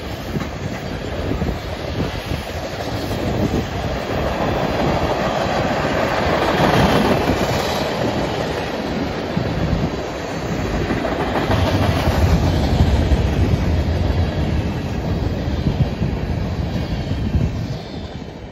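Freight train tank cars and covered hoppers rolling past, their steel wheels clattering over the rails. The sound drops away near the end as the last car goes by.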